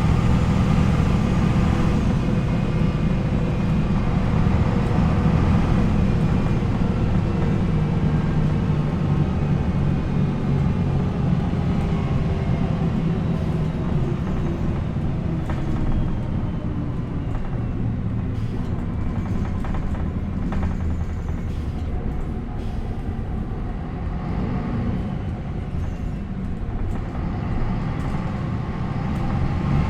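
MAN NL 263 city bus's D28 diesel engine running as the bus drives. The engine tone is strong at first, eases off and falls gently through the middle with a few knocks and rattles, then picks up again near the end.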